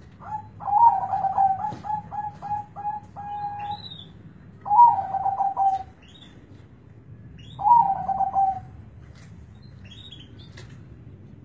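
Zebra dove (perkutut) cooing: a run of short coos ending in a longer held note, then two shorter coo phrases a few seconds apart. Faint high chirps from small birds sound between them.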